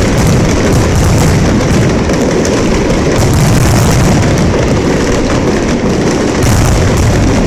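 Fireworks display at full barrage: shells bursting in dense, unbroken succession, one boom running into the next.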